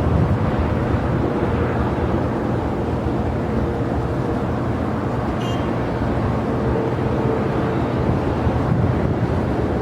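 Steady rumble of jet airliner engines, with a faint steady whine above it.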